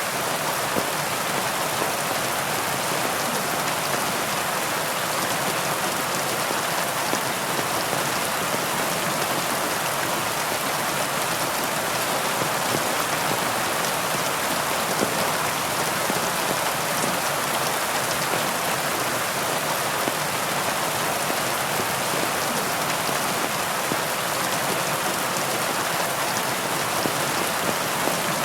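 Steady heavy rain falling, an even hiss with fine drop patter and no breaks.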